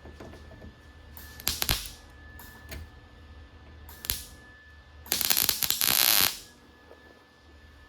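Welder laying short tack welds on thin sheet metal that burns through easily: three separate bursts of arc noise, a short one about a second and a half in, a brief one near four seconds, and the longest, just over a second, starting around five seconds. A steady faint hum runs between them.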